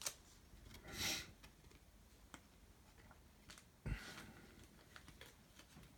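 Faint handling of trading cards being slipped into plastic card sleeves: a soft sliding rustle about a second in, a dull knock a little before the middle, and scattered light clicks.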